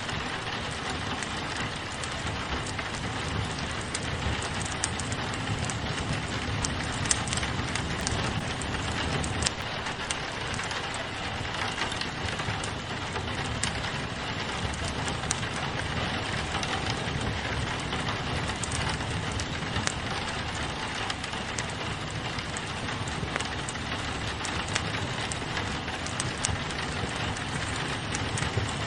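Steady rain falling on a window glass, mixed with a fireplace crackling: an even hiss of rain with scattered sharp pops and clicks from the burning wood.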